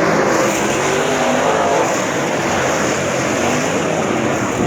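A field of late model race cars running at speed around the track, several engines blending together, their pitch rising and falling as the cars go by.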